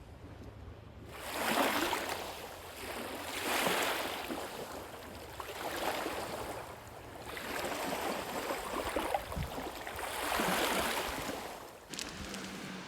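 Small lake waves washing onto the shore, a hiss that swells and ebbs about every two seconds.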